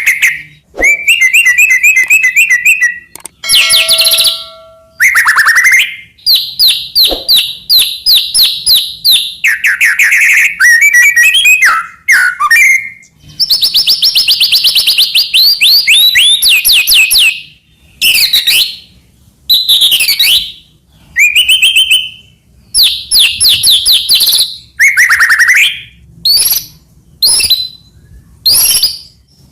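White-rumped shama (murai batu) singing a loud, varied song full of different phrases ('isian'). Fast trills, clear whistles and sharp downward-sliding notes come in phrases a second or two long, with brief pauses between them.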